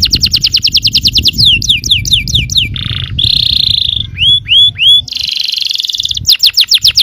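Yellow canary singing a varied song: a fast trill of rapid falling notes, then slower downward-sweeping whistles, a short buzzy note and a held whistle around three seconds in, three upward-curling notes, and a rolling rattle before the rapid falling notes return near the end.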